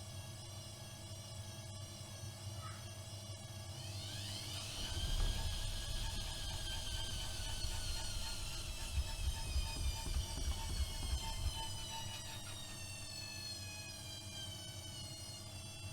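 AEG Öko-Lavamat 76730 washing machine running a wash: the drum motor's whine climbs sharply about four seconds in, then slowly falls in pitch. Irregular low thumps of the laundry tumbling in the drum come through the middle.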